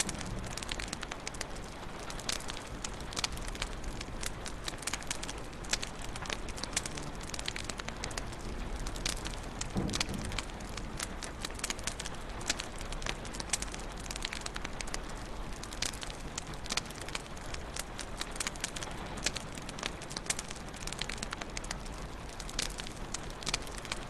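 Wood fire crackling in a fireplace: many irregular sharp pops and snaps over a steady soft hiss, with a brief low rumble about ten seconds in.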